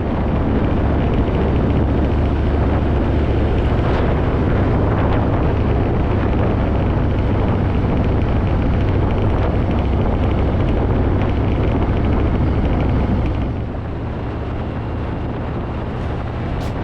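Harley-Davidson motorcycle engine running steadily under way, with a strong low rumble and a broad rush of road and wind noise over it. It eases a little near the end.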